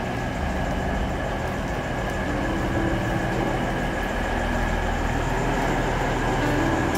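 Steady running rumble of a moving vehicle, with a faint steady whine over it.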